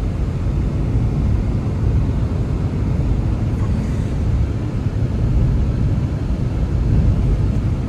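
Blizzard wind blowing steadily, a deep, even noise with no breaks.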